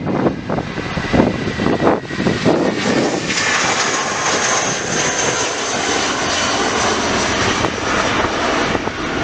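Airliner jet engines running loud as a plane passes close, a steady high whine over a dense rushing noise that sets in about three seconds in. Before that, gusts of wind buffet the microphone.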